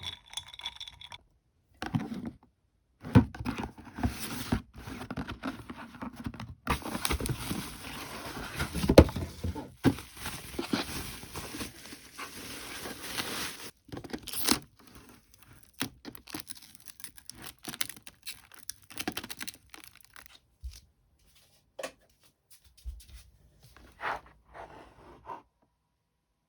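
Irregular handling noises: rustling and scraping with scattered clicks and knocks, densest for several seconds in the middle, then thinning out to a few faint clicks.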